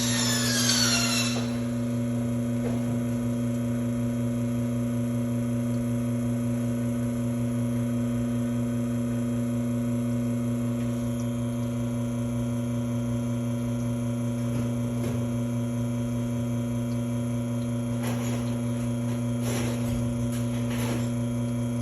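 Espresso machine's pump humming steadily while pulling a shot that is running a little slow. A brief falling high whine sounds in the first second or so.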